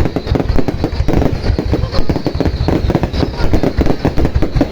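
Fireworks going off: a dense, unbroken run of loud bangs and crackles, many a second.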